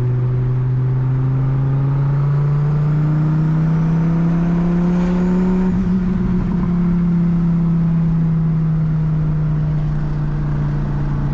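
Twin-turbo Dodge Viper's V10 engine droning steadily under way. Its pitch climbs slowly for about six seconds, then eases off a little as the car holds speed.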